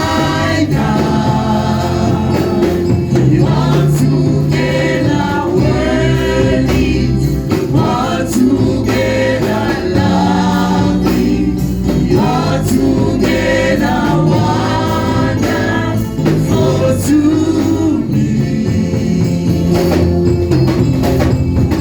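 Gospel worship music: a choir singing over a steady bass line with a rhythmic percussion beat.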